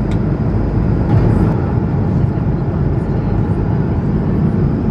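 Steady cabin noise inside an Airbus A220-100 airliner: a low, even roar with a faint high whine above it, and a small click right at the start.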